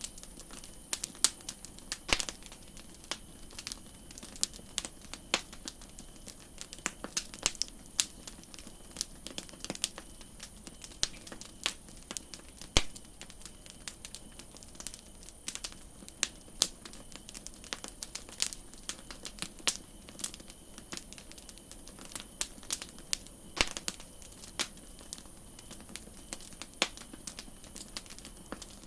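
Wood campfire crackling, with irregular sharp pops and snaps, several a second at times, over a soft steady hiss.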